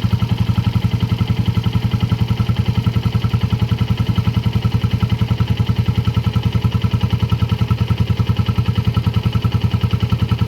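Suzuki Volty 250's single-cylinder air-cooled four-stroke engine idling steadily with an even pulsing beat.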